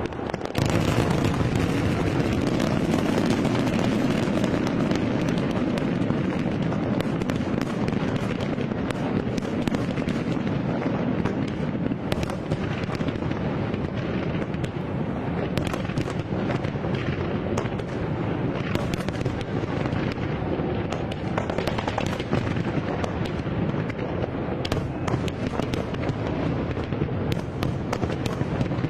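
Fireworks display: a dense, continuous barrage of bangs and crackles with many sharp pops, getting suddenly louder about half a second in.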